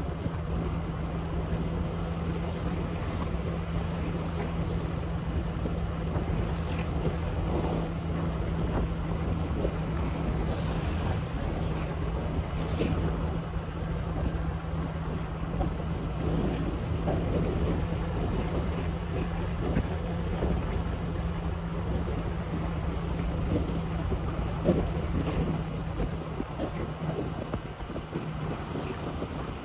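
Motorbike engine running at a steady speed, with wind buffeting the microphone.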